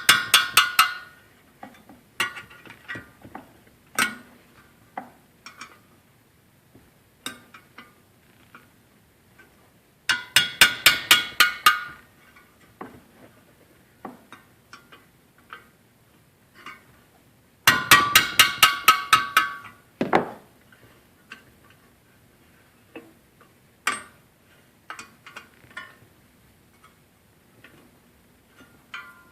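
Ratchet wrench clicking in quick runs of about five clicks a second while it spins loosened nuts off the fan clutch. There are three runs of about two seconds each, with single metal clinks and taps between them.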